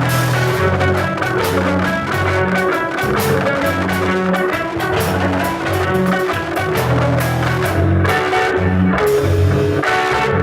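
Live rock band playing an instrumental passage: guitars over bass and drum kit.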